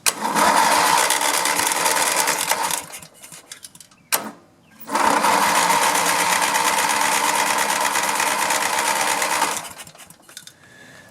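A riding lawn mower's electric starter cranks the engine twice, about three seconds and then about five, with a fast even chugging. The engine does not catch, which the owner puts down to a fuel problem.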